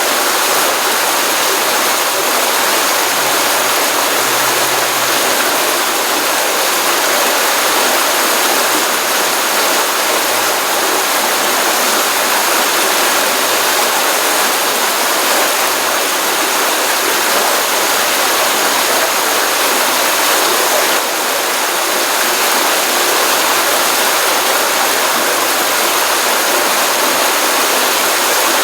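Water of a pond-fed stream running steadily after a rainstorm, a continuous even rush that is strongest in the upper range, without breaks or splashes.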